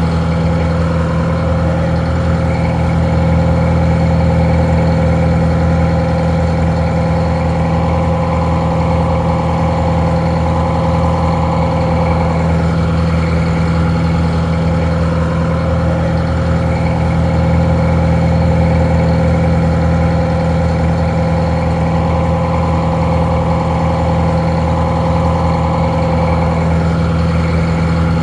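Detroit Diesel 4-71, a two-stroke inline four-cylinder diesel, idling steadily with an even low drone, slightly muffled.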